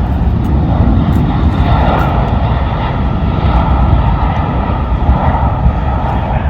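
Jet airliner engines: a loud, steady rushing rumble with no break.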